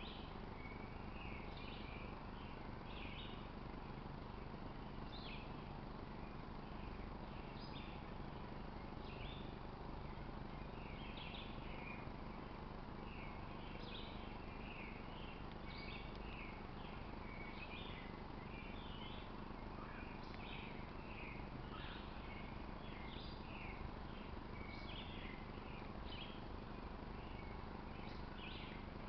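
Small birds chirping in many short, irregular calls over a steady background hiss.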